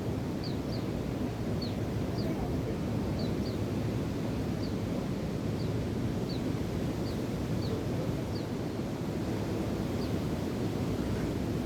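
Steady rush of wind and surf, with a bird repeating short, high, slightly falling chirps about once or twice a second.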